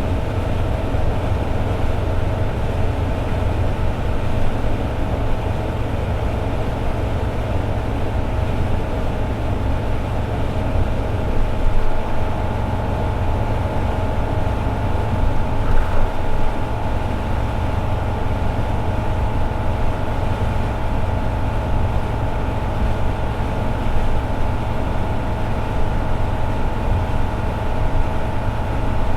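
Toyota AE86 Sprinter Trueno's 4A-G four-cylinder engine running at steady highway cruising revs, with a deep rumble of road and tyre noise underneath. The engine note holds steady, with slight bumps in loudness at about twelve and sixteen seconds in.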